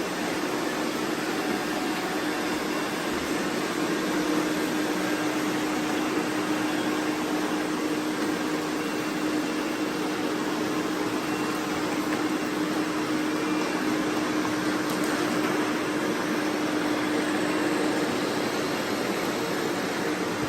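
Robot vacuum running: steady suction-fan noise with a low, even hum that fades out near the end.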